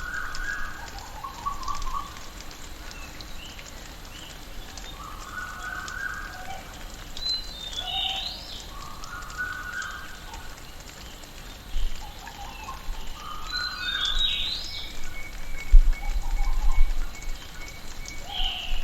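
Rainforest ambience: a bird song repeating about every six seconds, a lower warbled phrase followed by higher falling calls, over a steady background hiss. Brief low rumbles come near the start and again about two-thirds of the way through.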